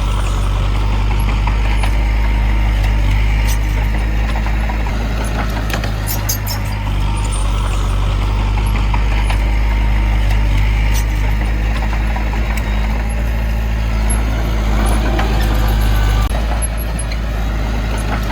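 Heavy diesel engine of earthmoving machinery running steadily under load, with scattered short high metallic squeaks and clinks.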